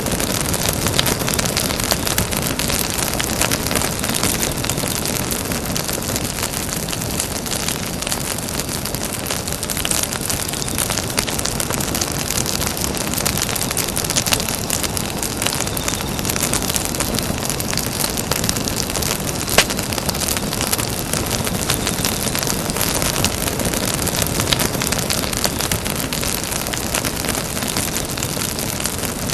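Campfire burning with a steady rush and many small crackles, and one sharper pop about twenty seconds in.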